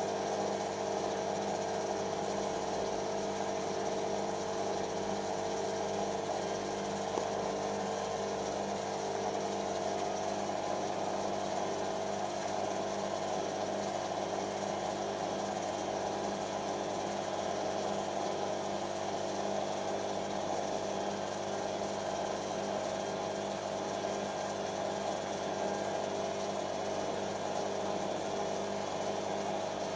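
Creda Simplicity W120VW washing machine running a short spin: a steady motor hum and whir. The motor is struggling to put power in smoothly.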